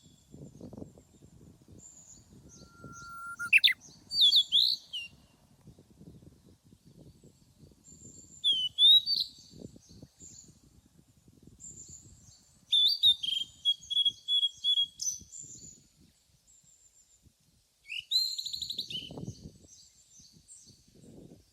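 Wild birds singing and calling, with separate chirps and whistled phrases: a falling whistle early on, a rapid trill about halfway through and a buzzy phrase near the end. A faint low rustle runs underneath.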